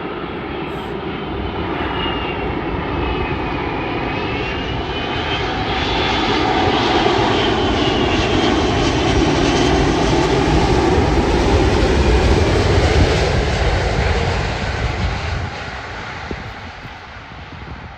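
Jet airliner passing close by, its engine noise building to a peak about two-thirds through and then fading, with a high whine that glides in pitch as it goes past.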